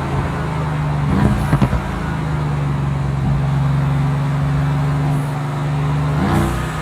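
Mercedes-AMG GT S 4.0-litre twin-turbo V8 running at steady revs while driving. About a second and a half in, the engine note shifts with a few sharp cracks. Near the end the pitch steps up again.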